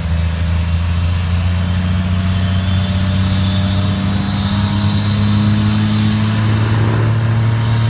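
Vehicle engine running steadily and loudly, its pitch creeping slowly upward.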